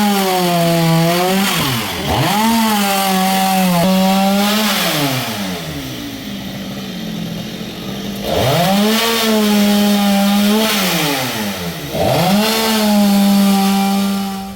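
Chainsaw run at high revs in bursts of about two seconds, easing off and picking up again between them, with a longer stretch at lower speed around the middle.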